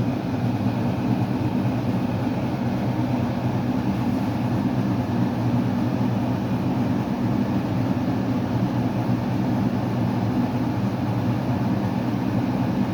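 A steady low mechanical hum with a constant pitch and no pauses or changes.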